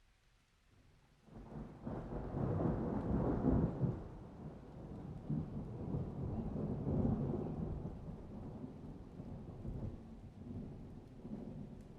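Thunder rumbling. After a short lull it swells about a second and a half in, is loudest over the next two seconds, then rolls on in slow waves that gradually fade.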